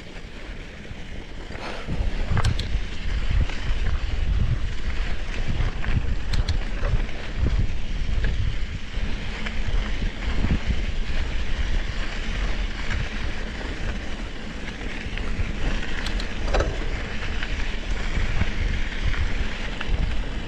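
Wind buffeting the microphone of an action camera on a moving mountain bike, a loud low rumble with scattered knocks and rattles from the bike over rough ground. It gets louder about two seconds in.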